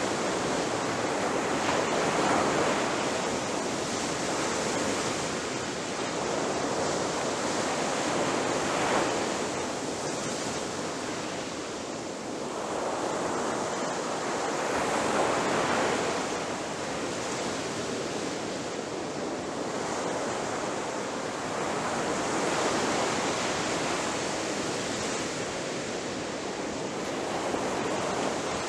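Ocean surf breaking on a beach: a continuous wash of waves that swells and recedes every few seconds.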